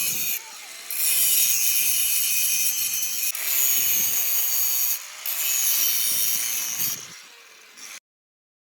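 Harsh, hissing abrasive rubbing on the bus body, like sanding or grinding, in runs of a second to a few seconds with short breaks, cutting off suddenly near the end.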